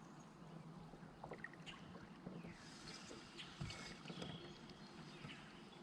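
Faint sounds of kayak paddling: paddle strokes in the water, light drips and small ticks against the hull.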